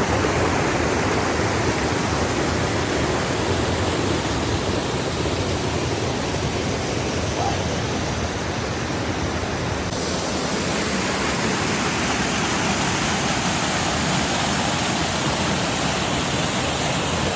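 Creek water rushing over falls and rocks: a steady, even wash of water noise that turns brighter and hissier about ten seconds in.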